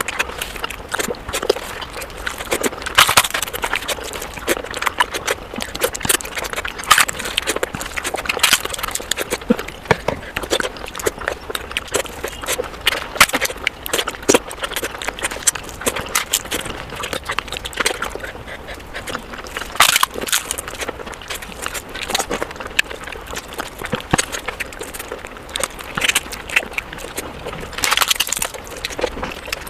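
Close-miked eating of fish curry and rice: wet chewing and lip-smacking, with many short, irregular sharp clicks.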